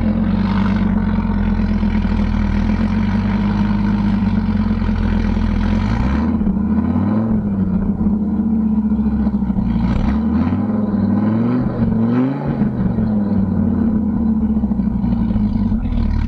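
Supercharged 2004 Dodge Viper SRT-10's 8.3-litre V10, with long-tube headers and exhaust, idling just after start-up. The revs rise and fall briefly about six seconds in, then climb more slowly to a peak around twelve seconds in and drop back to idle.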